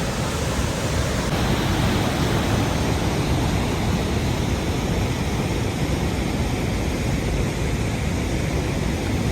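Waterfall in full flow: steady, dense rush of falling water, loud and unbroken throughout.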